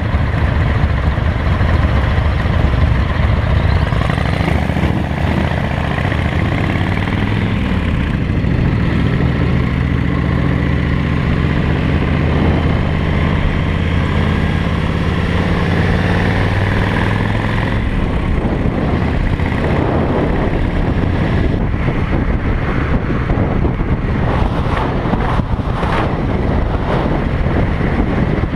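Motorcycle engine running on the move, with road noise; the engine note holds steady from about eight seconds in until about eighteen seconds, then fades into rougher noise.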